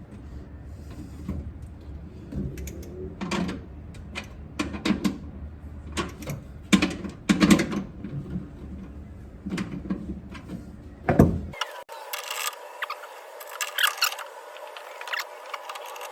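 Irregular metallic clicks and knocks of small parts and hand tools being handled while bolts and washers are worked on, over a low hum. About two-thirds of the way through the sound changes abruptly to a thinner, higher-pitched clatter.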